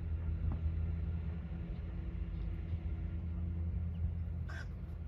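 A single short, harsh bird call about four and a half seconds in, over a steady low mechanical drone.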